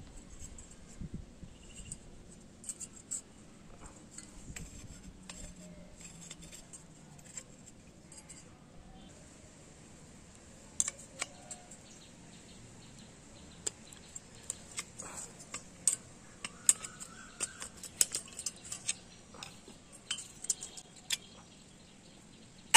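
Small metal parts and tools clinking and tapping as a microwave oven magnetron is handled and taken apart. The sharp clicks are scattered, sparse at first and coming thicker in the second half.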